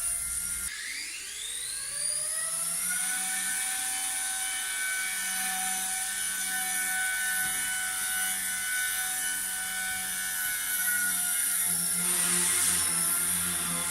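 XK K110 micro RC helicopter's brushless motor and rotors spooling up about a second in, a rising whine that levels off into a steady high-pitched whir. A brief rush of added noise comes near the end.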